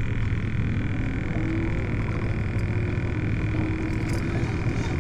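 Steady low engine drone, with a faint steady high whine above it.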